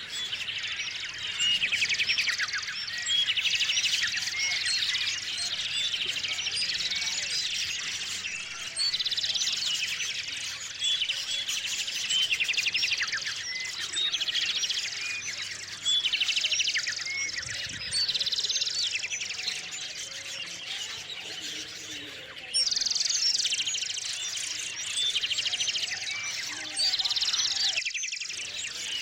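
A chorus of small songbirds chirping and trilling over one another, with louder song phrases breaking in every few seconds.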